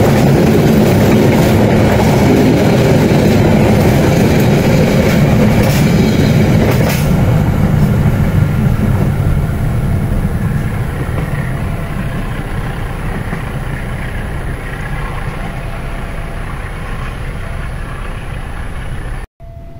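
Passenger train running past on the line: a loud rumble of wheels on the rails with a few sharp clicks about six to seven seconds in, then fading gradually as it moves away. The sound cuts off suddenly just before the end.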